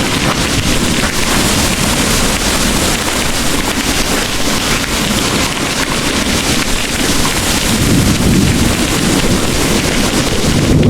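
Heavy rain pouring steadily, with a low rumble of distant thunder swelling over the last few seconds.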